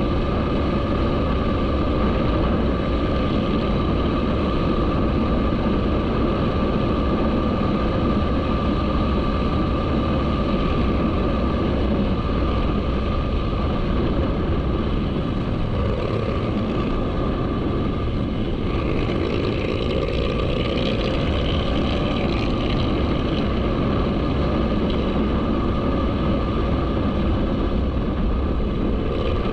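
Motorcycle engine running steadily, as when riding at an even speed: a continuous drone with a steady whine that does not rise or fall.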